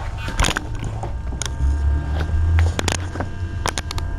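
A handful of short, sharp clicks and knocks, spaced unevenly, over a steady low hum.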